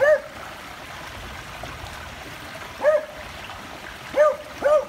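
A dog barking four times, once right at the start, once about three seconds in and twice in quick succession near the end, over a steady rush of rainwater running in a roadside drain.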